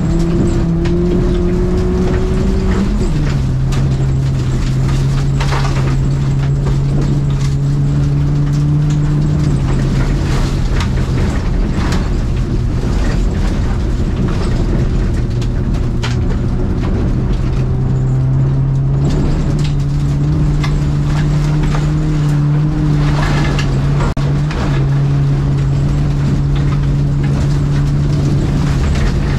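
Renault Clio 1.4 engine heard from inside the cabin, running hard through an autocross run on loose dirt. The engine note holds fairly level and steps in pitch a few times as the driver shifts or lifts. Scattered short knocks and rattles run throughout.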